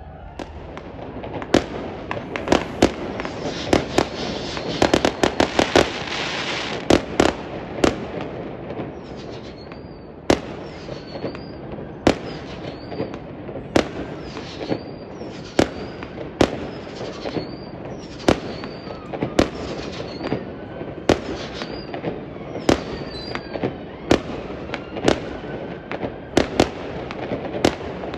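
Aerial fireworks exploding over a steady rumbling background: a rapid barrage of bangs a few seconds in, then single bangs about once a second, many followed by a short high whistle.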